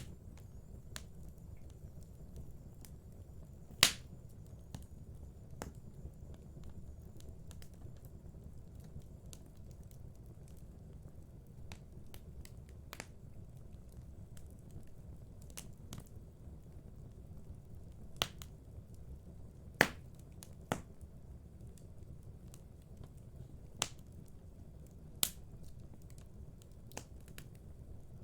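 Fire in a fireplace crackling: irregular sharp pops and snaps over a steady low rumble, with the loudest pops about four seconds in and near twenty seconds.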